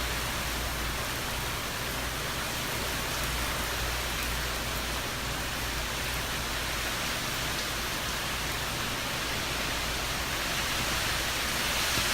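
Steady rain and wind of a hurricane, a constant even rush with a low rumble beneath it.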